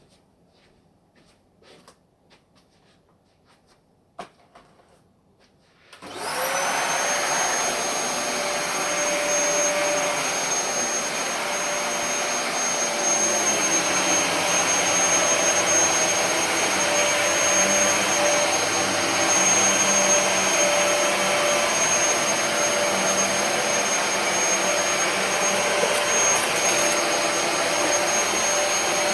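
Dyson DC33 upright vacuum cleaner switched on about six seconds in, its motor spinning up quickly to a steady high whine and running on at full power; the repaired machine is working well. A few faint clicks of handling come before it starts.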